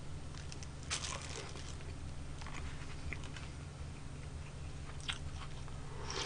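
A person chewing a mouthful of rice ball close to the microphone: faint mouth clicks and chewing noises, with a short crunchy burst about a second in, over a steady low hum. Right at the end a loud slurp from a soup bowl begins.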